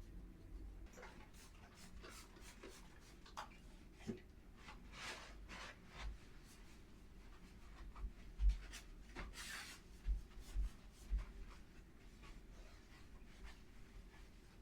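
Irregular short scrubbing strokes on a hard surface, with a couple of longer strokes and a few low bumps.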